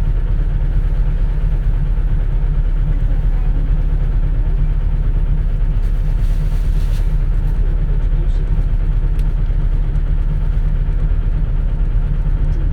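Steady low drone of a 2004 CNG (natural-gas) city bus's engine running, heard from inside the cabin, with a brief faint hiss about halfway through.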